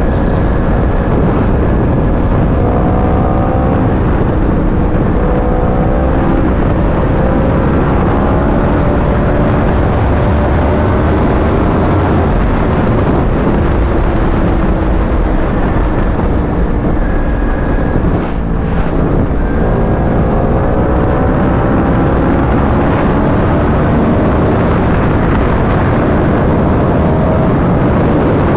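Yamaha R1 sportbike's inline-four engine under way, pitch climbing again and again as it accelerates up through the gears, with wind rush over the microphone. The engine sound drops briefly about two-thirds of the way through.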